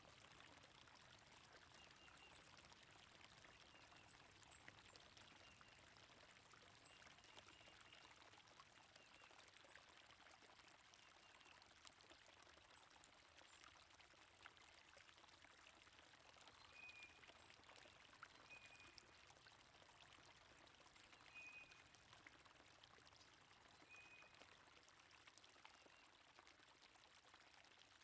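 Faint, steady rush of a flowing stream, with short bird chirps now and then, a few seconds apart.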